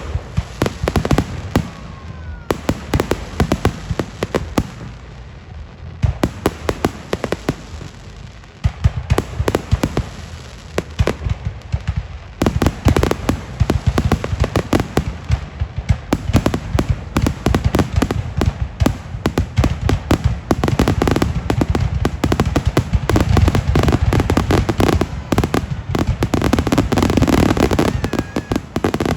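Fireworks display going off in rapid succession: dense volleys of sharp bangs and crackling over a low rumble, growing busier about halfway through.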